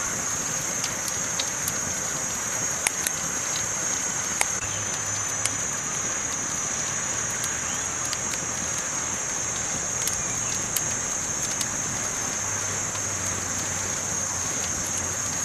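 Campfire crackling: a steady hiss broken by scattered sharp pops and snaps, with a steady high-pitched tone running above it.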